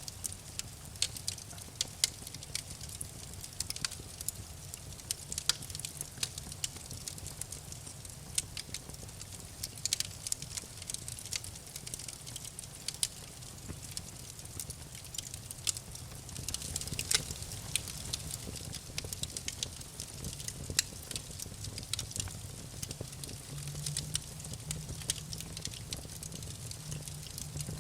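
Wood fire crackling in a fireplace: irregular sharp pops and snaps over a low, steady background.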